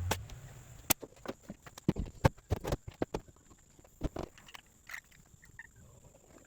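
Irregular wooden knocks and clacks from carpentry work on floor framing, with lumber being handled and struck. The hits come unevenly, several close together in the first three seconds and a couple more about four seconds in.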